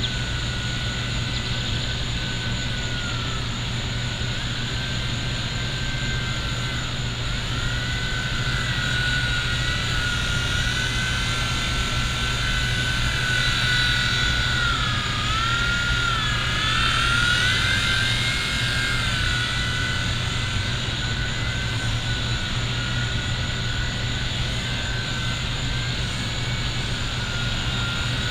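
A V911 micro RC helicopter's electric motor whining in flight. The pitch dips and rises several times as the throttle changes, with the deepest dip and swell around the middle.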